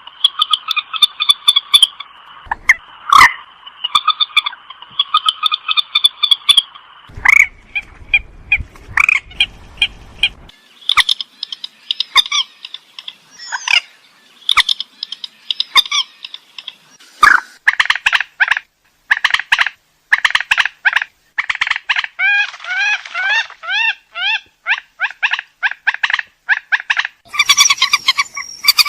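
Purple swamphen calling: a long run of loud, repeated calls with many short notes, and a series of short rising calls about two-thirds of the way through.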